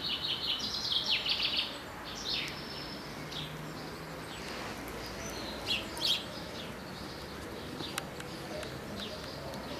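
Small birds chirping and singing outdoors: a quick run of calls in the first couple of seconds, then scattered single chirps.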